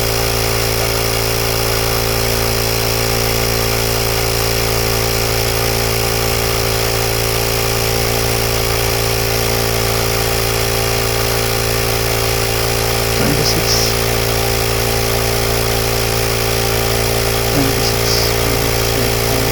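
Portable 12 V Michelin digital tyre inflator's compressor running steadily as it pumps up a car tyre, an even mechanical hum with no change in pitch. Two brief faint noises come in the second half.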